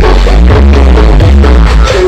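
Electronic dance music played at full volume through a large sound-system rig with twelve subwoofers, the deep bass far the strongest part.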